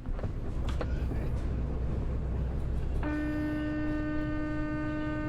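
Steady low road and engine rumble from a dashcam clip, then, about three seconds in, a vehicle horn sounding one long steady note for about two and a half seconds.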